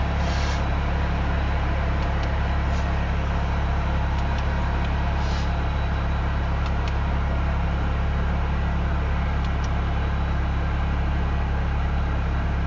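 Slow-moving Union Pacific freight train rolling past with a steady low rumble and a few faint clicks.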